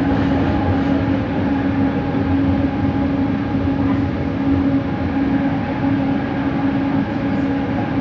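Bombardier Innovia ART 200 train car running, heard from inside. Its linear induction motor gives an unusual steady hum, a held low tone over the running noise that pulses slightly.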